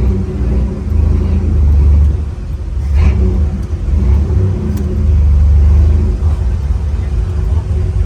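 Loud, low car engine rumble that swells and dips in level, like engines running at the cruise.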